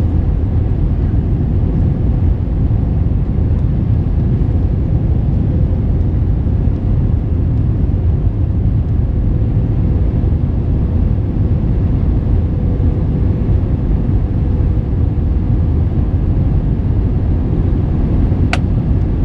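Steady rumble of an Airbus A321 in flight, heard from inside the cabin: engine and airflow noise with a faint steady hum. There is one sharp click near the end.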